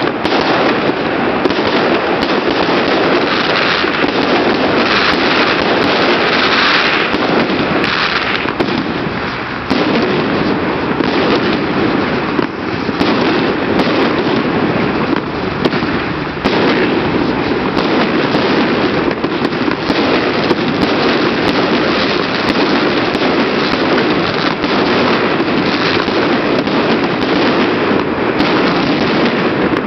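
Fireworks display going off without a break: a loud, dense run of crackling and bangs that never lets up.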